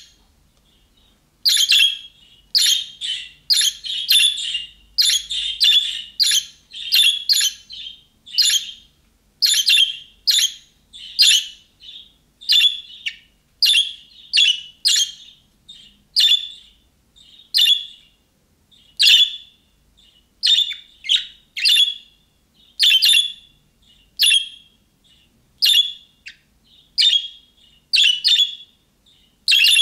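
Budgerigar calling: a string of short, sharp chirps, a little more than one a second, after a pause of about a second and a half at the start.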